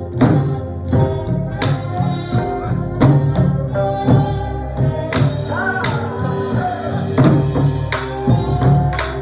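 Korean traditional ensemble music: sori-buk drum strokes under sustained melodic lines from wind and string instruments, with a bending pitch glide near the middle.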